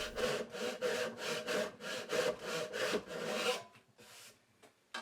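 A hand saw cutting through the end of a wooden box, partway through the wood to free the lid. It makes quick, even strokes, about five a second, and stops about three and a half seconds in.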